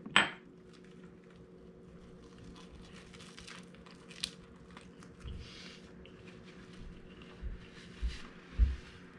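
A person biting into and chewing a crunchy tempura-fried fish sushi roll, with faint crackly crunching. A sharp knock comes right at the start, and several low thumps near the end, over a steady low hum.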